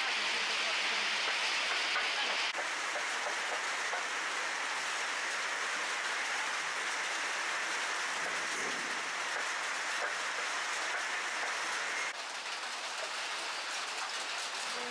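Steady rain falling, an even hiss with scattered drop ticks. The level steps down abruptly about two and a half seconds in and again about twelve seconds in.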